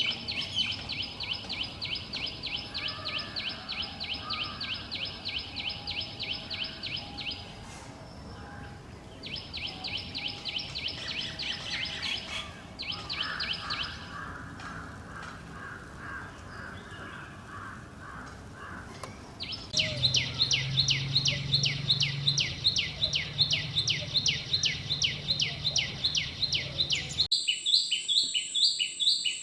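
Common tailorbird calling: long runs of rapid, evenly repeated high chirps with short breaks, and a lower-pitched series in the middle. A low hum joins the calls about two-thirds through, and near the end the background cuts abruptly to a steady high whine under the chirps.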